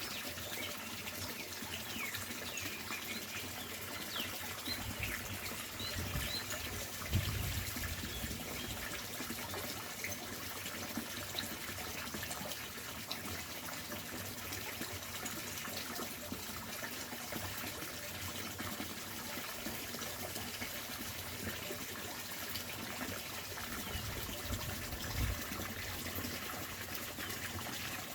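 Water rushing steadily down a fish ladder, with birds chirping faintly in the first few seconds. A couple of low thumps, the louder about seven seconds in and another near the end.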